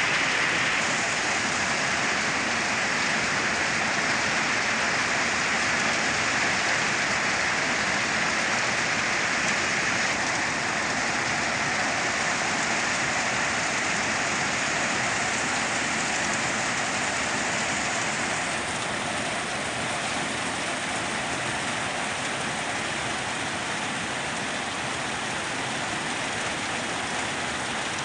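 Heavy rain falling steadily, a dense even hiss of drops with no thunder, easing slightly in strength twice along the way.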